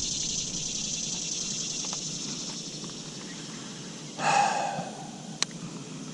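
Steady high-pitched insect drone, fading slowly. About four seconds in comes a short, loud pitched call that falls away, and a sharp click follows a second later.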